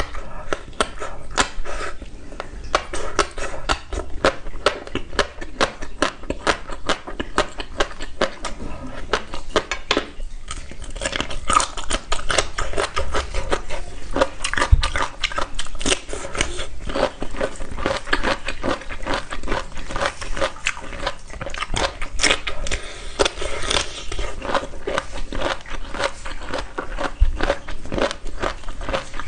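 Close-miked eating of crisp food: rapid crunching and crackling bites and chewing, one dense run of clicks after another, with a brief lull about ten seconds in.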